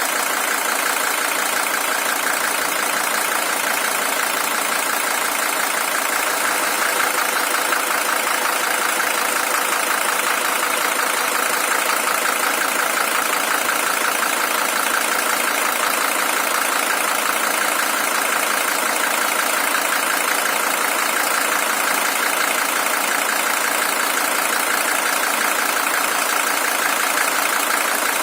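Mercedes-Benz W123 300TD's five-cylinder OM617 diesel engine idling steadily, an original engine with 620,000 km on it.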